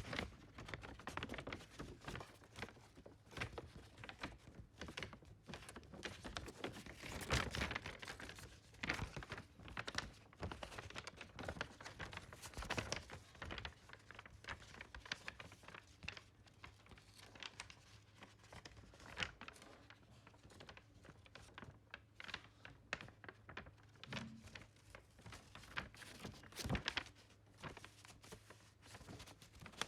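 Graphite pencil scratching on paper in quick, irregular short strokes, with a faint steady hum underneath.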